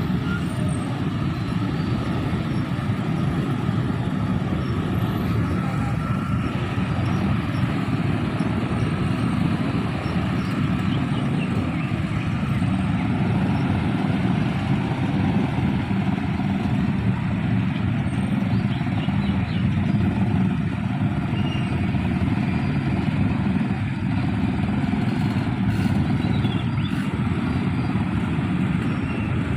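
Steady, continuous low rumble of passing vehicles, running on without a break.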